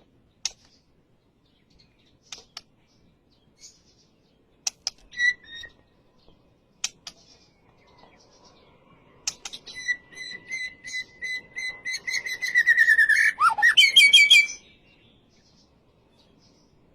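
White-rumped shama (murai batu) calling and singing: scattered short sharp calls at first, then a long fast run of notes over a held whistle-like tone that dips in pitch and ends in a quick flourish before stopping abruptly.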